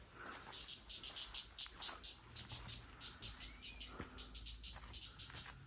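An insect, cricket-like, chirping in a fast, even train of high-pitched pulses, about six a second. There is a single sharp click about four seconds in.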